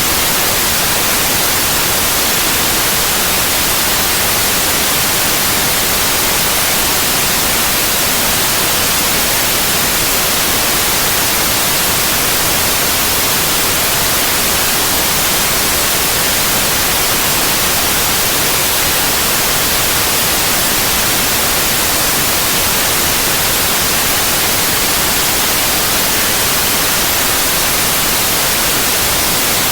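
Steady synthetic white noise: an even, unbroken hiss spread across the whole range, strongest in the treble, with no change over time.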